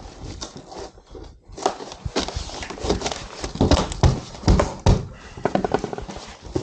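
Repeated knocking and tapping on wall board panels as they are fitted, with a run of heavier thumps about four seconds in.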